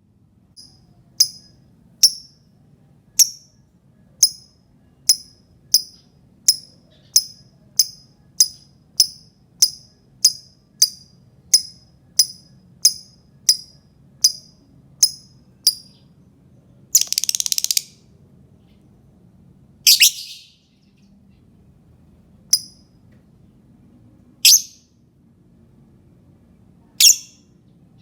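Lovebird giving sharp, high single chirps about once a second, coming a little faster towards the middle, then a longer harsh call and a second one soon after, followed by a few widely spaced chirps. This is a lure call meant to set other lovebirds singing.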